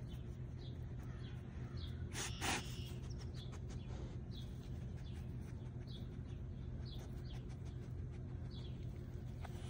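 Small birds chirping in short repeated calls, with two brief, louder noises about two seconds in.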